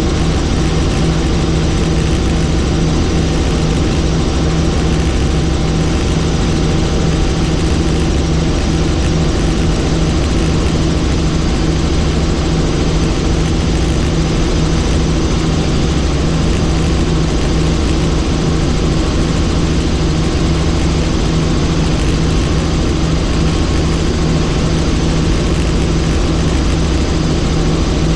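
Helicopter engine and rotor in steady cruising flight: a loud, constant drone with a steady low hum over a dense hiss.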